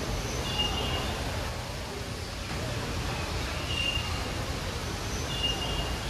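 A small bird giving short, thin whistled notes three times over a steady low hum and a faint murmur of voices in an aviary.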